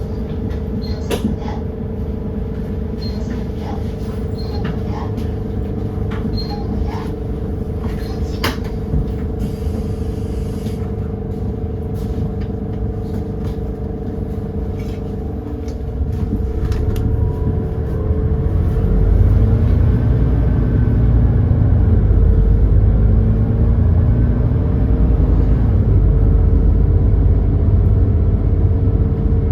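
Edison Motors Smart 110G city bus's GX12P natural-gas engine heard on board: a steady hum with scattered clicks and rattles, then from about halfway the engine rumble swells and its pitch rises as the bus pulls away under load.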